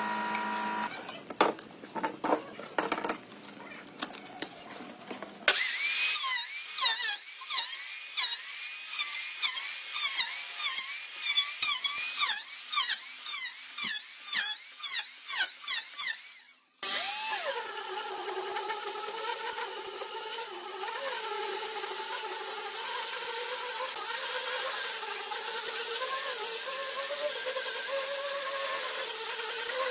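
Power tools working wood: a few short strokes, then a run of quick repeated strokes, each with a falling whine, then from just past halfway a steady motor whine that wavers in pitch under load.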